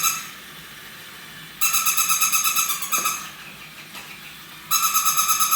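Battery-powered toy robot dog playing an electronic sound through its small speaker: a buzzy, rapidly pulsing tone in bursts of about a second and a half, repeating every three seconds or so.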